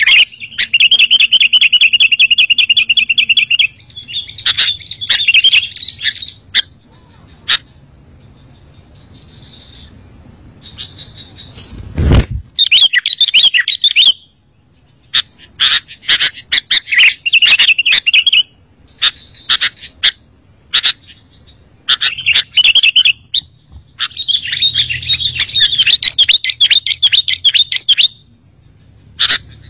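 Sooty-headed bulbul (kutilang) singing: bursts of loud, rapid chirping and fast rattling trills, separated by short pauses. There is a quieter lull about a quarter of the way in, and a single sharp thump near the middle.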